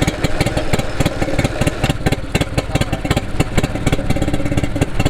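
1950s Stuart P55MR twin-cylinder two-stroke marine engine running steadily, with an even, rapid firing beat.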